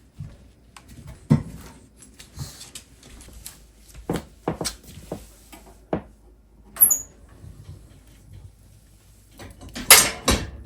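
Irregular knocks and clunks of things being handled in a small room, with a short high squeak about seven seconds in and the loudest cluster of knocks near the end.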